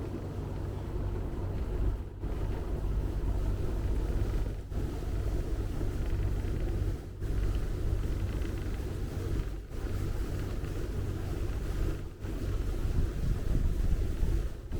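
Motor cruiser's inboard engine running steadily at low speed, a low rumble heard from on board.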